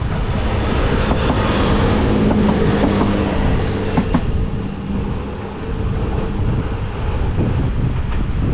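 JR Kyushu YC1-series diesel-hybrid railcar passing close by, its running hum strongest a couple of seconds in and fading as it moves away, with a sharp click from the wheels on the rails about four seconds in. Wind buffets the microphone throughout.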